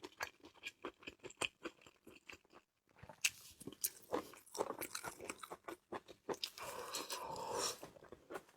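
Close-miked chewing and biting of grilled sea snail meat: a run of small wet clicks and crunches, with a short pause about two and a half seconds in.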